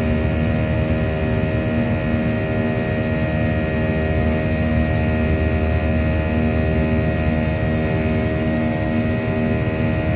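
Steady cabin drone inside a Boeing 737 airliner: a low rumble with several steady tones held over it, unchanging throughout.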